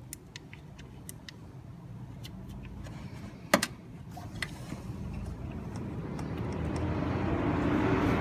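Light metallic clicks and one sharp metal clink about three and a half seconds in, from parts being handled at the engine bay. In the second half a motor vehicle's engine grows steadily louder, like a vehicle approaching.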